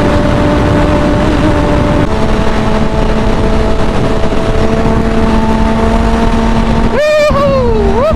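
Motorcycle engine running at a steady speed under a heavy rush of wind on the microphone while riding. The engine note steps down about two seconds in, then dips and climbs again near the end, as with a gear change.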